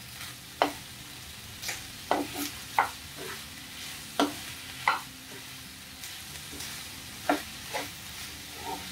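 Chicken breast pieces with onion, green chillies and garlic sizzling in a frying pan as a metal spatula stirs them, scraping and knocking against the pan at irregular moments.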